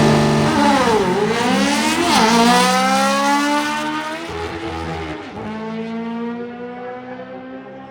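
Drag race car accelerating hard down the strip, its engine pitch climbing and dropping sharply twice at the gear shifts. It then holds a steady note that fades as the car pulls away.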